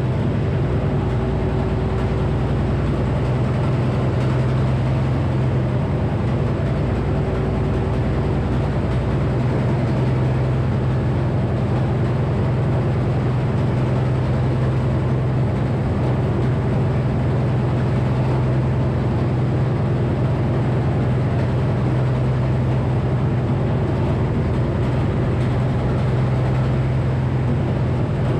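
Engine-driven Frick sawmill with a 48-inch circular blade running steadily, a constant low hum with no clear start or stop.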